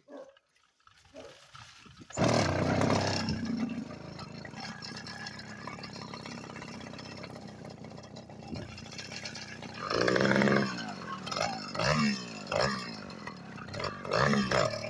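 Motorized bicycle's small engine starting about two seconds in, then running steadily and being revved up several times near the end.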